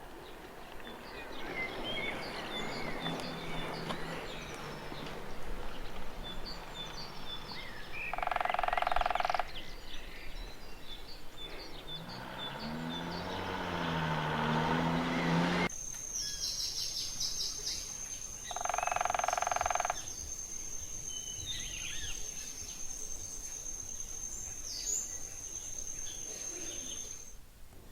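Woodpecker drumming on wood in two rolls of about a second each, among the scattered chirps of other birds. A steady high-pitched whine runs through the second half.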